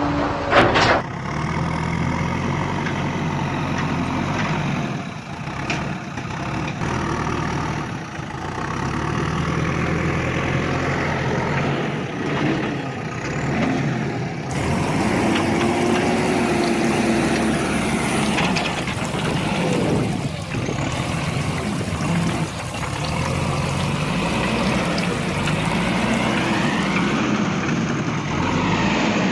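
Heavy diesel vehicle engines running, idling and revving up and down, with a sharp knock about a second in.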